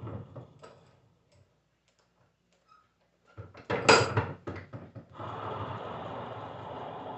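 24-volt alternator spinning with a rough, gritty rumble from a bad bearing. The rumble dies away in the first second, and after a pause there is a short clatter of knocks as the unit is handled about halfway through. Then the rough rumble starts again and runs steady.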